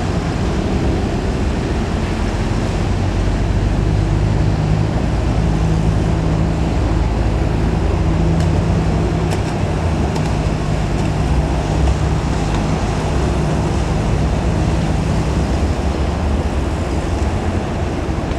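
Old Toyota DA100 truck engine running with a steady low drone that holds an even pitch through most of the stretch.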